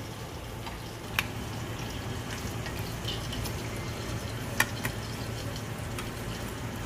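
Chicken pieces deep-frying in hot oil, a steady sizzle with a few sharp clicks, the loudest about a second in and twice around four and a half to five seconds in.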